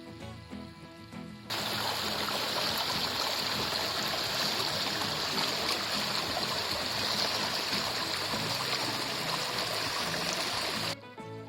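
Loud, steady rush of fast-flowing water. It cuts in sharply about a second and a half in and cuts off just as abruptly near the end, with background music on either side.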